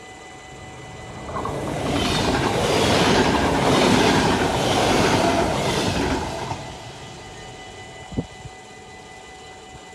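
Dutch NS double-deck electric passenger train passing a level crossing at speed. Its running noise swells in over about a second, runs loud with a rhythmic clickety-clack of wheels over the rail joints, then fades away after about six seconds. A steady high ringing tone from the crossing signal sounds throughout, and there is a single short knock about eight seconds in.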